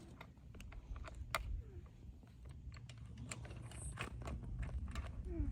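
Scattered light metallic clicks and taps at irregular intervals as a wrench works the bar nuts on a chainsaw, over a low steady rumble.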